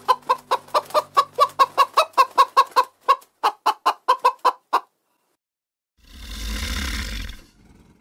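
Chickens clucking in a fast run of short calls, about five a second, thinning out and stopping near five seconds. After a pause, a long hoarse hiss comes in about six seconds in.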